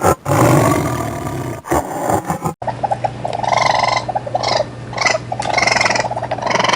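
Animal calls from two different recordings: a loud, harsh call that cuts off abruptly about two and a half seconds in, then a run of short, repeated pitched calls over a low steady hum.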